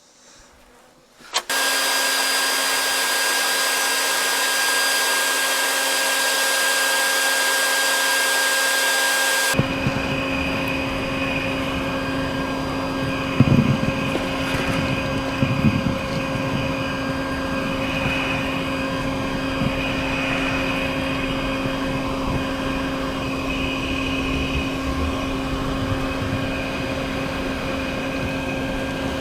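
A bee vacuum switches on about a second in and runs steadily with a motor whine. Partway through its sound turns lower and rougher as the nozzle works the hive, with a couple of knocks.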